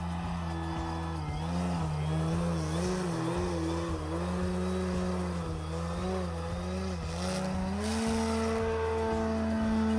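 Brushless electric motor and large two-blade propeller of an RC aerobatic plane in flight, a droning buzz whose pitch slides up and down with the throttle and the passes; about eight seconds in it rises and holds higher.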